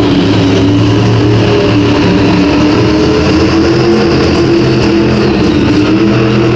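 Monster truck engine running loud, its pitch holding fairly steady with small rises and falls.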